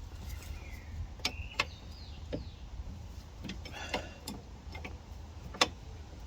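Sharp, irregular metal clicks of a spanner and T40 Torx bit working a shock absorber nut by hand, the loudest about five and a half seconds in.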